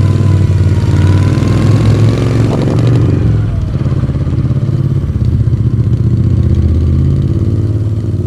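The air-cooled V-twin of a 1982 Moto Guzzi V35 running, its pitch rising over the first few seconds, with a short clack about two and a half seconds in, then settling into a steadier, duller note.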